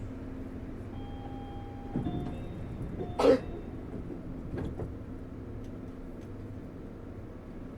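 Interior of a Kobe New Transit 3000-series automated guideway car: a low steady hum, with a few short beeps and a single brief loud sound about three seconds in.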